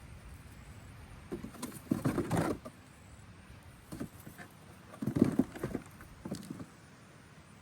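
Freshly dug sweet potatoes being handled and gathered up: irregular rustling and soft knocks in several short bursts, the loudest about five seconds in.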